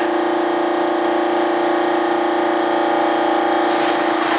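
Steady machine hum holding one constant pitch with overtones, over a faint hiss.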